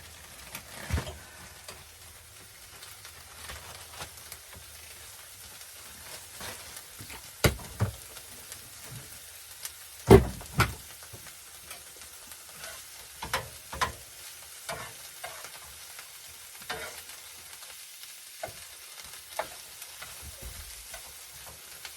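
Chopped vegetables sizzling as they sauté in a skillet, with a spatula scraping and clicking against the pan. The sharpest knocks come about seven and a half and ten seconds in.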